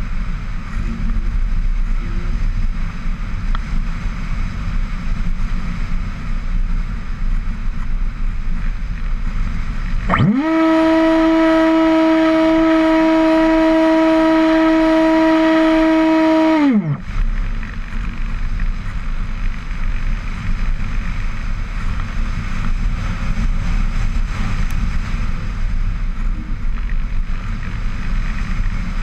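Steady rushing noise, like wind on a microphone. About ten seconds in, a loud steady hum swoops up in pitch, holds for six or seven seconds, then swoops down and cuts off, and the rushing comes back.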